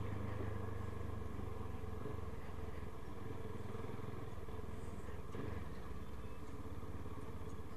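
Motorcycle engine running steadily at low speed, a low even engine note with road noise over it.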